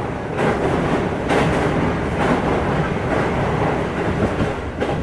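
Train running along the track: a steady rumble with several sharper clacks as the wheels cross rail joints.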